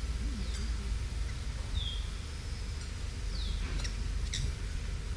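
A bird in New Guinea forest calling with short, clear whistles that slide downward in pitch, three in a row about one and a half seconds apart, with a couple of short sharp chips in between, over a steady low rumble.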